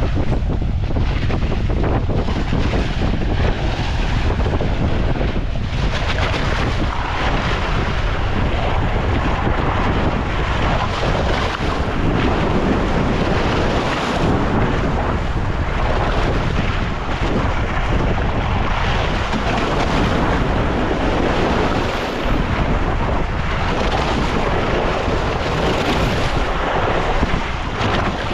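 Wind buffeting the microphone: a loud, continuous rush, heaviest at the low end, swelling and easing slightly with the gusts.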